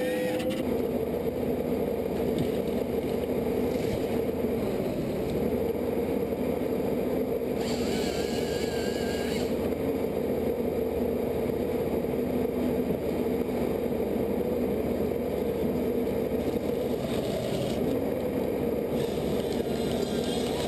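An engine or machine running steadily with an even drone, with a harsher, higher-pitched sound for a couple of seconds near the middle.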